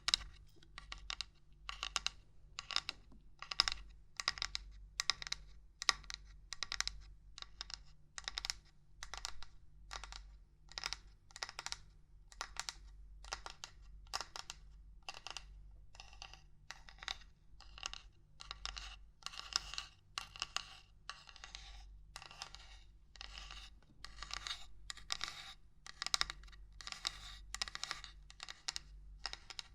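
Irregular knocking and tapping on small hard objects, close to the microphone. The sharp taps come in uneven clusters, often in quick pairs, about two or three a second.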